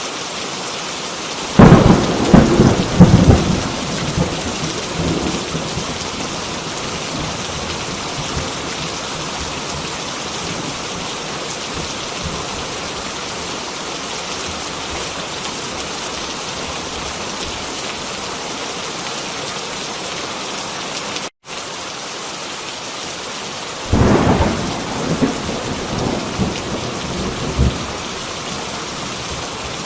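Heavy rain falling steadily, with two rolls of thunder: one about a second and a half in, lasting a couple of seconds, and another near the end. The sound cuts out for a split second about two-thirds of the way through.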